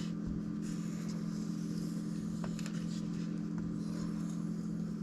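Steady low machine hum of several even tones, with a couple of faint light clicks in the middle.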